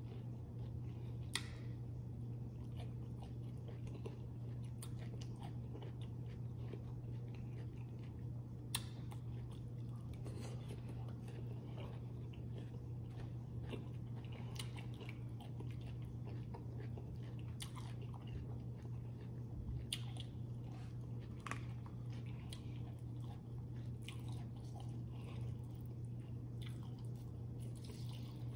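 Close-up chewing and biting of food, with wet mouth sounds and scattered sharp crunches and clicks, over a steady low hum.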